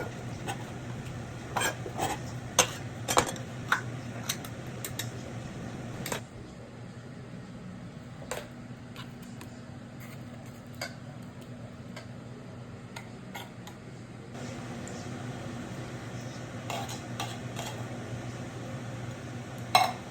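A utensil stirring a pot of chicken pot pie filling and knocking against the pot, with a run of sharp clinks in the first six seconds and scattered ones after. A low steady hum runs underneath.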